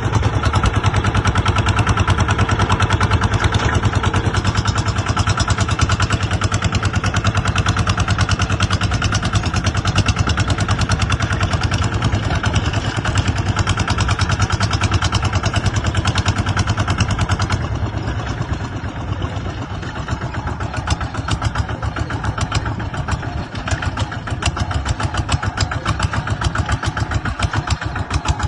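Kubota ZT140 single-cylinder diesel engine of a two-wheel tractor running steadily, with a rapid even beat of firing pulses; it gets a little quieter about two-thirds of the way through.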